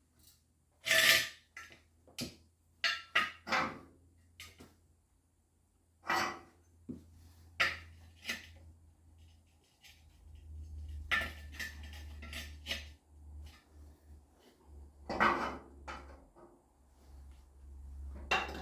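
Steel pieces clanking and clinking as they are handled and set down, about a dozen sharp knocks at uneven intervals, the loudest about a second in. A low hum comes in about halfway through.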